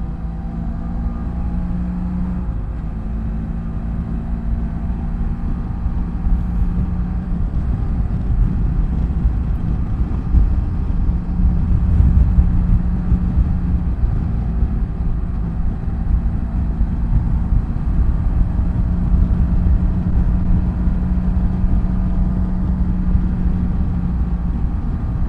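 BMW F800GS motorcycle's parallel-twin engine running at a steady cruise, with a low rumble of wind and road underneath.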